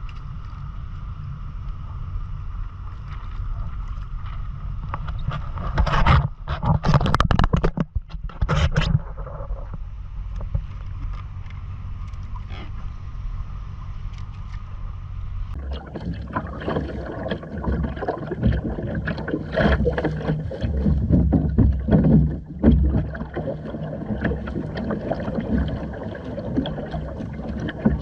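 Water noise and wind buffeting the microphone aboard a Hobie Island sailing kayak under way. There is a loud gusty, splashy stretch about six to nine seconds in, and from about halfway the water turns choppier and louder, with frequent small splashes.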